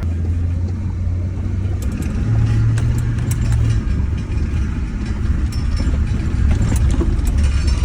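2005 Duramax LLY 6.6-litre V8 turbo-diesel running steadily, with a slight swell in the early middle and light clicks in the second half. It is running on an edited tune with the anti-theft disabled and extra idle fuel, which the owner thinks may be running a little fat.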